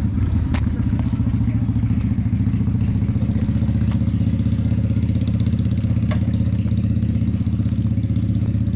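Mini bike engine running at a steady speed, with no revving.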